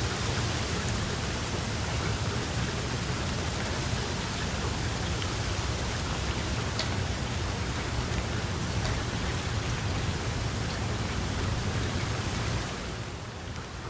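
Steady rain falling, a dense even hiss with scattered drop ticks; it eases and grows duller about a second before the end.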